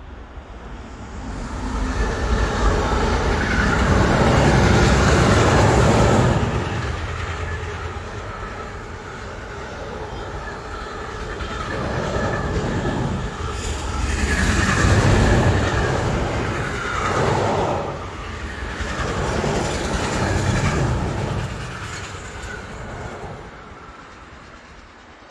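A train passing by on the rails: it grows loudest about four to six seconds in, then the cars rumble past with several swells of wheel-on-rail noise before it fades away near the end.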